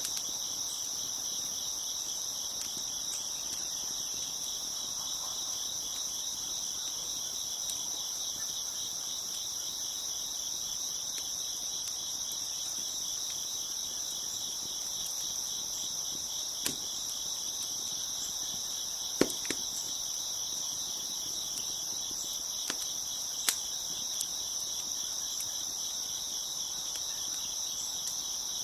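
A dense, steady chorus of crickets chirping. A few sharp pops from a crackling wood fire come in the second half.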